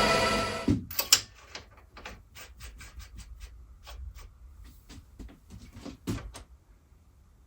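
A workshop machine tool's motor running, then stopping under a second in, followed by scattered light clicks and knocks of small metal parts and tools being handled, with a sharper knock about six seconds in.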